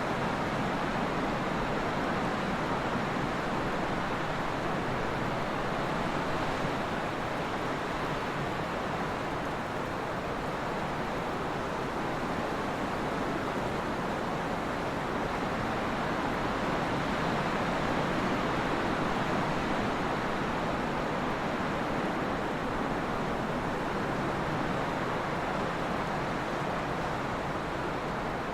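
Steady trade wind blowing, an even rushing noise that swells and eases gently over several seconds.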